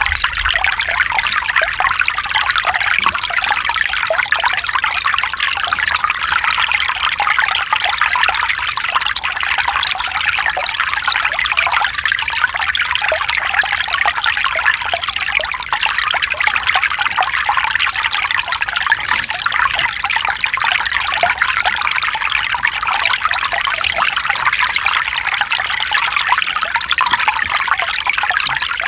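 Mountain stream running over rocks: a steady, bright rush and trickle of shallow water.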